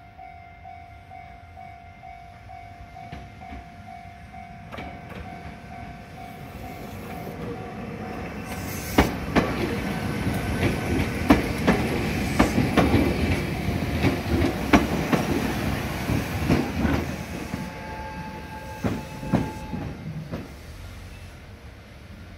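Ohmi Railway train approaching and running along the track. The rumble builds, is loudest in the middle with repeated clacks from the wheels over the rail joints, then fades. A steady tone is heard in the first few seconds.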